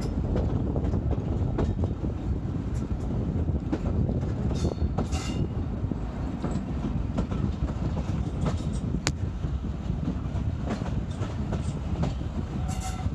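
Hunslet Austerity 0-6-0ST saddle-tank steam locomotive running with its train: a steady heavy rumble with scattered sharp clicks of wheels over rail joints. A brief higher rattle comes about five seconds in.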